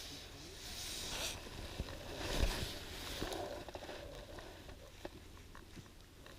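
Spinning rod and reel being handled and cast: brief rushing rustles, the loudest about two and a half seconds in, followed by scattered small clicks of the reel and tackle.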